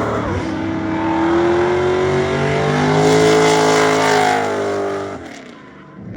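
BMW E39 M5's S62 V8 held at high revs through a drift, its pitch slowly climbing and then easing, over a steady hiss; the sound fades away about five seconds in.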